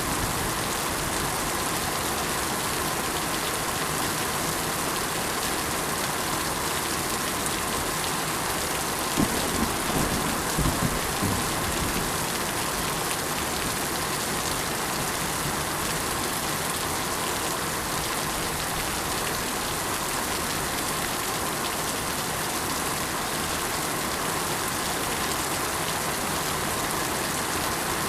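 Steady rain falling in an even hiss. About nine to eleven seconds in, a short run of a few louder low thuds stands out.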